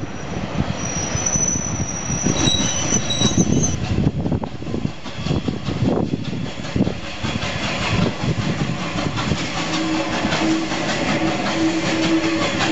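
Railway carriage wheels squealing on a curve as a train of coaches moves off, then the unrebuilt Bulleid West Country 4-6-2 steam locomotive 34092 City Of Wells drifting into the platform with its wheels clattering over rail joints. A steady low tone joins near the end.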